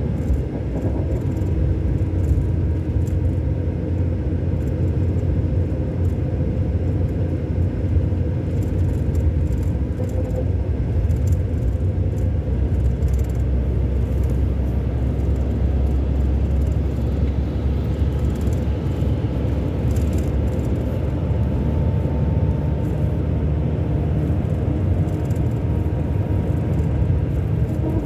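Engine of a Scania K400 Euro 5 double-decker coach, a 13-litre inline six, running steadily under way with a low drone and road rumble. A faint whine rises slightly past the middle.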